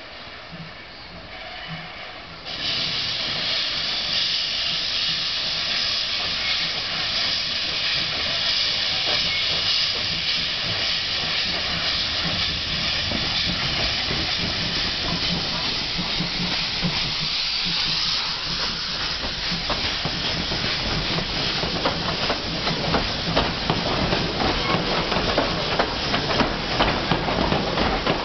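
Steam locomotive departing: a loud steam hiss starts suddenly about two and a half seconds in. Later, steady chuffs and clatter build up and grow louder near the end as the train gets moving.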